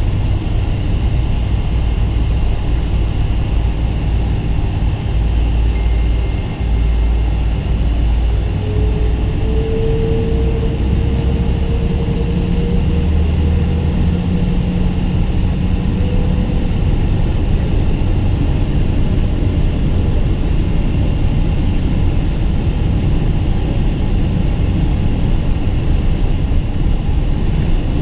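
Boeing 777-200 jet engines running at takeoff power, heard from inside the passenger cabin as a loud steady roar over a deep rumble. The rumble eases about halfway through, and a faint whine rises slightly from about a third of the way in.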